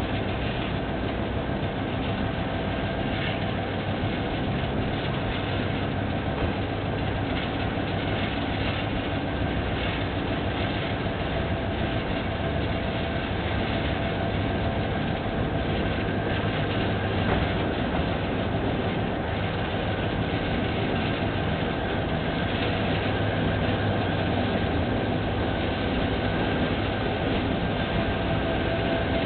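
Passenger train heard on board, hauled by a General Motors GT-22 diesel locomotive: a steady low drone of the diesel engine and the running noise of the carriages on the rails, with faint scattered knocks from the track.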